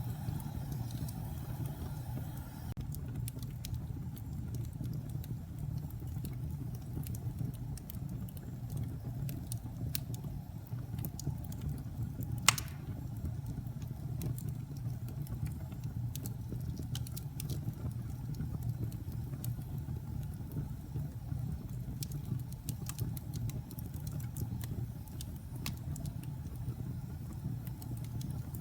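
Wood fire crackling in a fireplace: a steady low rumble of burning with scattered sharp crackles, and one loud pop about halfway through.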